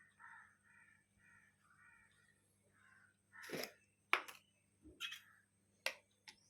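A bird calling about six times in quick succession, then several sharp clicks and knocks, louder than the calls.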